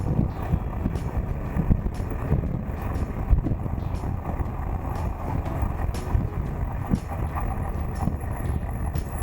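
Wind rumbling and buffeting on an action camera's microphone while riding a Suzuki GSX1400 motorcycle at speed, with the bike's engine and road noise buried underneath.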